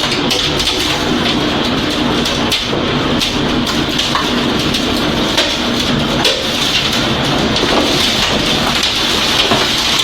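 Heavy storm rain: a steady, dense hiss with many small sharp hits of drops striking.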